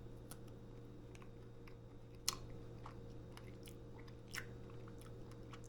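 Close, faint chewing of a bite of milk-chocolate candy bar studded with crisp fruity rice-cereal pieces: scattered small crunches, two louder ones about two and four and a half seconds in, over a steady low hum.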